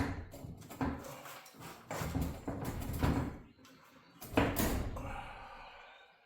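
Steel torsion shaft of a garage door being shoved sideways through its bearings: a few rough scraping, clunking strokes, the loudest about four and a half seconds in, then fading.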